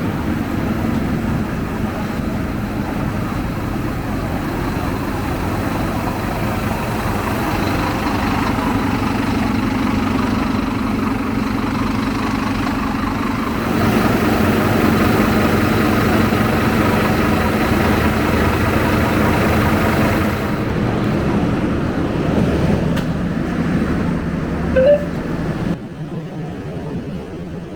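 Scania K250UB single-decker bus engine idling, with traffic noise around it. Near the end there is a single short electronic beep from the bus's fare card reader as a card is tapped.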